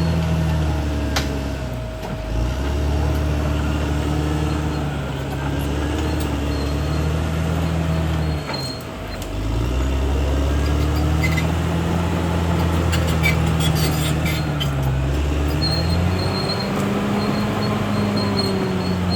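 Caterpillar D6R XL bulldozer's diesel engine running under load, its pitch sagging twice as it lugs down and then picking back up. Scattered sharp clicks and clanks sound over it.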